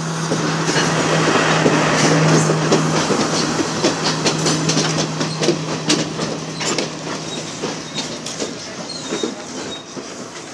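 Sri Lanka Railways Class S12 diesel multiple unit rolling past close by. A steady low drone from the power car fades out about eight seconds in, under a dense clatter of wheels clicking over the rail joints. The sound is loudest in the first few seconds and grows gradually quieter as the coaches pass.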